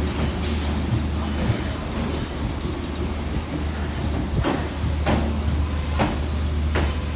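Suburban electric local train running on the rails: a steady low rumble, with four sharp clacks spaced under a second apart over the second half.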